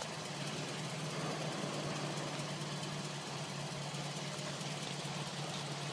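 2007 Scion tC's 2.4-litre four-cylinder engine idling steadily, a low even hum with no siren sounding.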